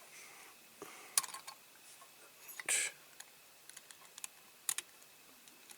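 Light, scattered clicks and taps of a small screw and screwdriver against a diecast model's metal base plate as a screw is worked into its post, with a brief scrape a little before three seconds in.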